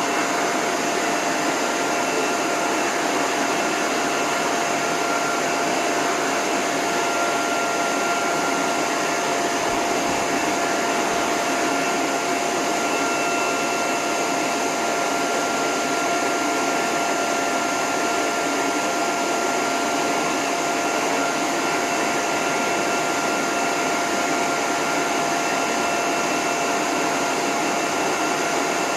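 Dog groomer's hose (force) dryer blowing steadily on its lowest setting with the end nozzle off: a constant rush of air over a steady motor whine.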